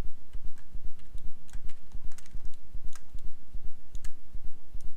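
Computer keyboard keys and mouse buttons clicking irregularly as Blender shortcuts are entered, over a steady low pulsing hum.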